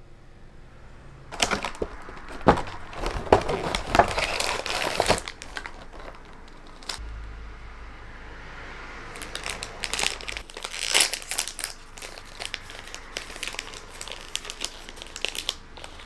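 Wrapping being crinkled and handled in two spells of irregular crackling, the first from about a second in and the second in the latter half.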